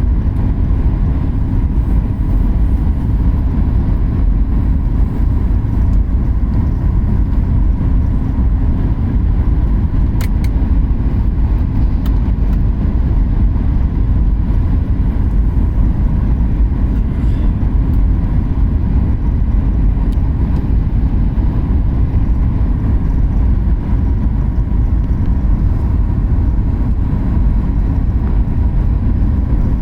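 Airliner cabin noise in flight or on approach: a steady low rumble of engines and airflow, with a faint steady hum running through it.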